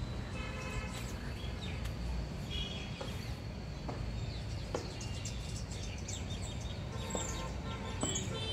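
Birds chirping in short bursts several times, over a steady low outdoor background rumble.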